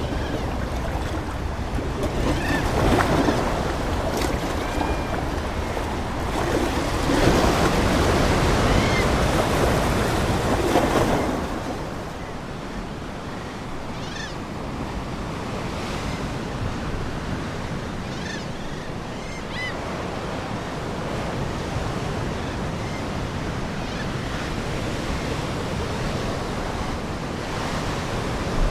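Ocean waves breaking and washing on the shore, with two bigger surges swelling and falling away in the first half, then a softer steady wash. Faint seagull calls come now and then.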